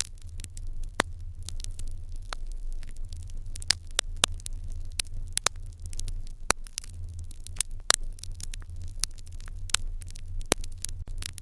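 Wood fire in an irori hearth crackling: irregular sharp pops and snaps, several a second, over a low steady rumble.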